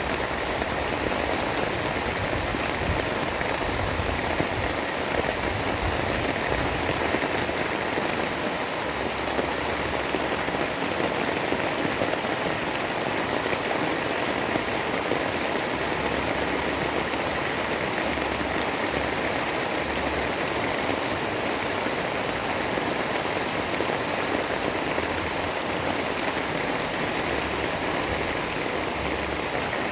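Steady rain: an even, unbroken hiss of falling rain, with no thunder.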